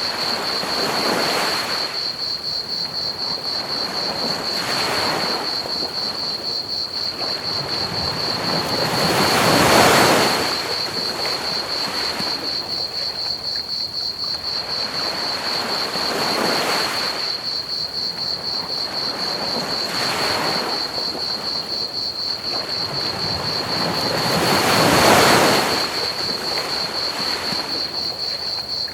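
Ocean waves washing onto a beach, swelling and breaking every few seconds, with the largest about ten seconds in and again near the end. Underneath, crickets chirp steadily in a high, rapid trill over a constant even hiss of pink noise.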